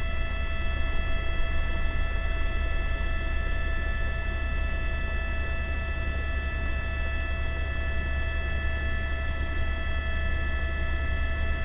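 Steady drone of a helicopter heard from inside the cabin: a low rotor rumble under several constant high whining tones from the turbine and gearbox.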